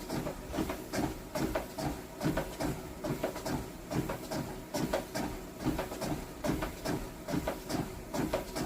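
Steady rhythmic thudding and clicking from a repeated home-workout movement, a little over two beats a second, each beat with a dull knock and a light click.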